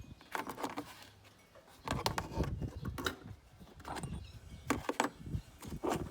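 Metal clinks and rattles of hand tools and engine parts being handled, a run of short knocks about once a second.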